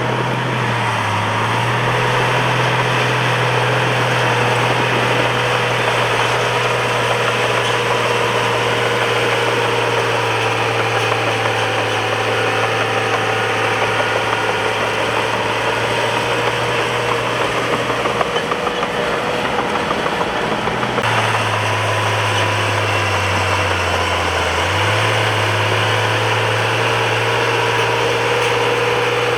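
A bulldozer's diesel engine running steadily. Its note sags briefly about a second in and again near the end, as it comes under load.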